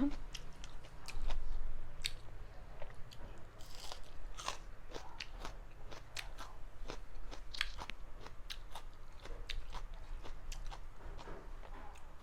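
A person chewing and biting food close to the microphone, with irregular crunches and mouth clicks.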